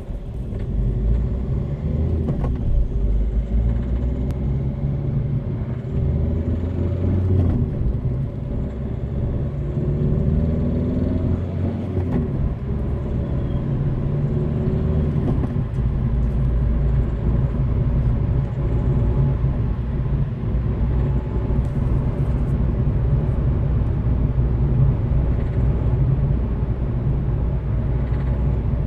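Diesel engine of a 2013 Citroën C3 Picasso running and revving, with several rises in pitch in the first dozen seconds, then a steady drone. The owner hears a ticking, clattering 'gurgle' under throttle that comes with a loss of power, and suspects a fault in the fuel injection.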